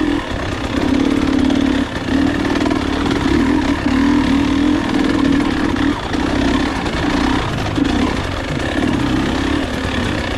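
Enduro motorcycle engine pulling through mud, the throttle opened and closed every second or two so the engine note keeps swelling and dropping.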